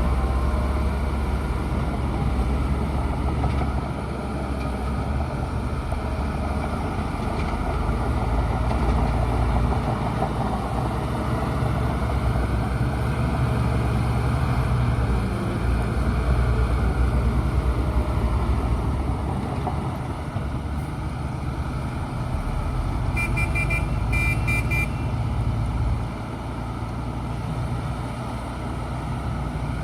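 Bulldozer's diesel engine running steadily under load, its level swelling and easing as it works. A short run of high electronic beeps sounds about three-quarters of the way through.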